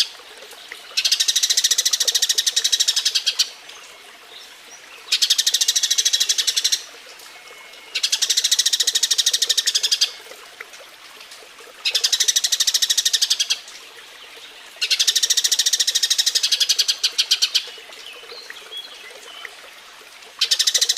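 Eurasian tree sparrow mating calls: fast runs of high chirps in bouts of about two seconds, repeating after pauses of a second or two.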